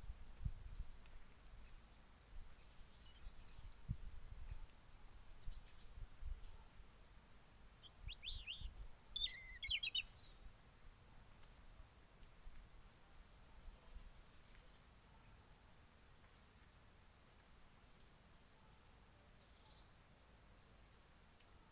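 Wild birds chirping in woodland: scattered high chirps in the first few seconds, then a short burst of chirping notes about eight to ten seconds in, with a few low thumps in the first half and faint steady outdoor ambience afterwards.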